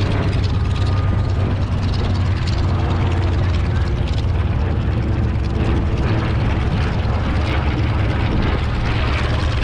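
Propeller airplane engines droning steadily at a constant level.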